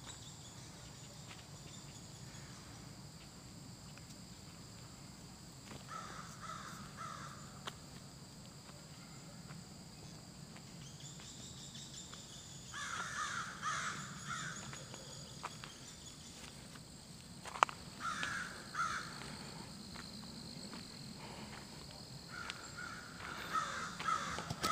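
A bird calling in four short bursts, over a steady high-pitched drone.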